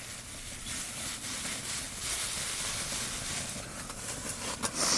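Campfire burning in a small fire pit: a steady hiss with scattered faint crackles.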